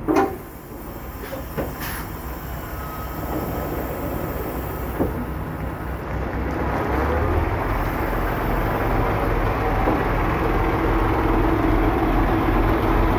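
Semi-truck diesel engine running, with a few sharp knocks in the first two seconds and about five seconds in; the engine rumble grows louder about seven seconds in.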